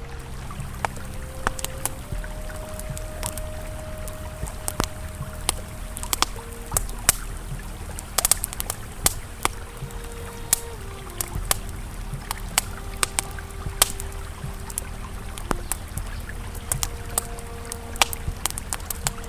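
Campfire crackling, with frequent sharp irregular pops, over the low steady rush of a flowing river. Soft sustained ambient music tones shift slowly underneath.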